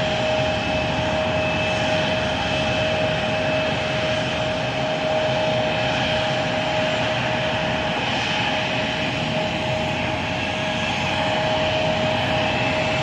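Bombardier CRJ900 regional jet's turbofan engines running steadily: a constant rushing noise with a steady high whine on top.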